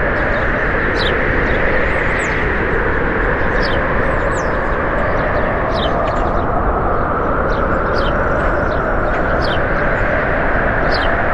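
A loud, steady rushing noise with short, high chirps of small birds over it, about one a second.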